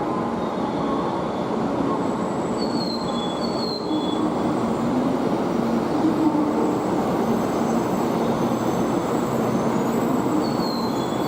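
Out-of-service Kyushu Shinkansen train pulling into the platform, a steady rumble from the train with a few brief, high falling squeals.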